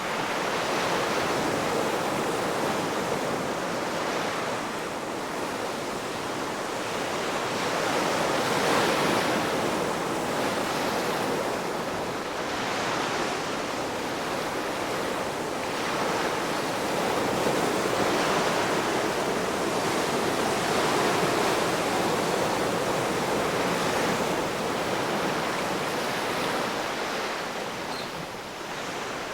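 Ocean waves breaking and washing on the shore, a continuous surf wash that swells and eases every few seconds.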